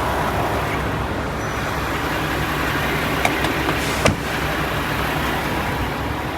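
Diesel engine idling steadily with a low rumble, and a sharp click about four seconds in.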